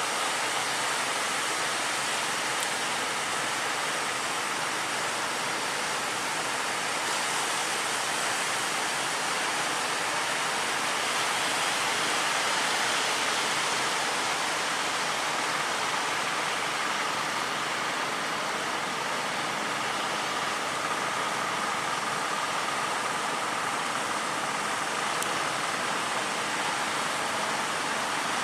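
Steady rushing noise of heavy surf breaking, even and unbroken.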